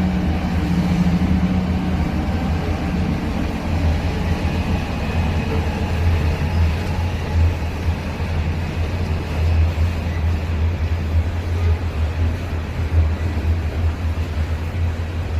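Freight train's diesel locomotives running as the train comes in, a steady low drone with a fainter higher hum that fades over the first few seconds.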